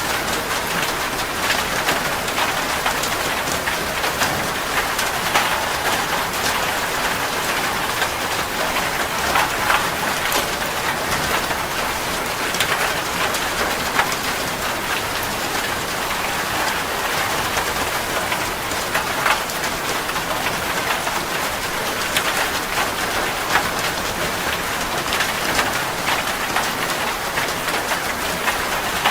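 Heavy rain pattering steadily on a metal roof, a dense even hiss sprinkled with sharp individual drop ticks.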